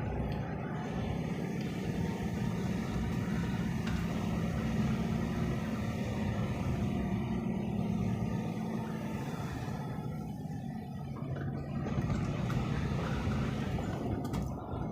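Steady low engine rumble of a moving vehicle, running without a break.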